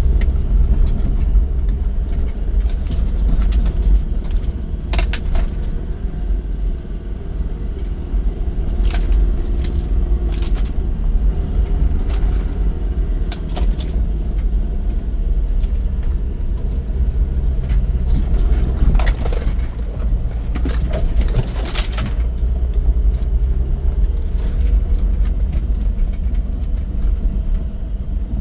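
Off-road vehicle driving over rough ground: a steady low engine rumble, with scattered knocks and rattles from jolts over the terrain.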